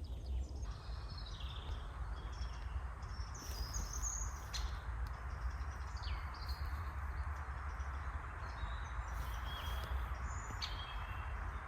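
Several wild birds calling: scattered short chirps and brief falling whistles, over a steady low rumble of forest ambience.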